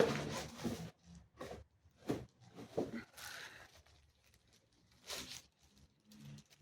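Cardboard packaging being pulled from a box and handled: short papery scrapes and rustles in a few separate bursts, the loudest right at the start.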